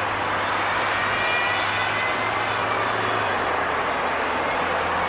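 Motor vehicle noise: a steady rush of traffic with an engine's low hum underneath, the hum shifting lower about three seconds in.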